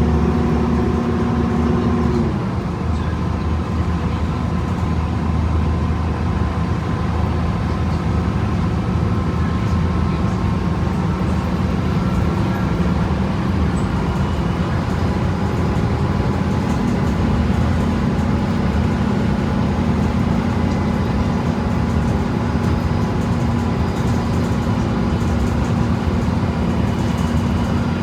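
2011 Gillig BRT transit bus with a Voith automatic transmission, heard from inside while driving: a steady drivetrain whine stops abruptly about two seconds in, then a lower tone climbs slowly in pitch through the second half as the bus keeps moving.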